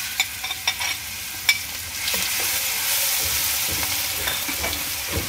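Crushed ginger, garlic and green chilli sizzling as it goes into hot ghee and oil in a steel pan, with a spoon clicking against the plate and pan as it is scraped in and stirred. The sizzle swells about two seconds in and then holds steady.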